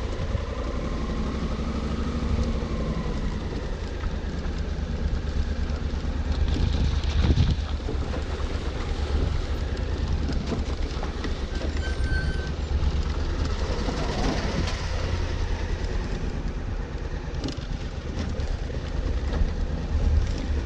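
Honda Africa Twin motorcycle engine running with a steady low rumble and noise over it.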